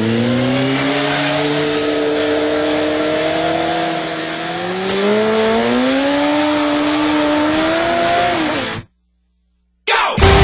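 Motorcycle engine held at high revs, its pitch slowly climbing, over a hiss of tyre or exhaust noise; it cuts off abruptly about nine seconds in. Loud music starts right at the end.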